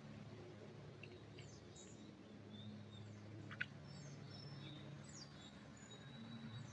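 Faint, scattered bird chirps and short whistles over a low steady hum, with one sharp tick about halfway through.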